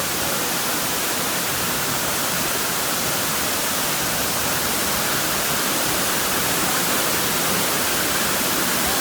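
Banyumala Twin Waterfall's falling water rushing, a steady, loud, even hiss.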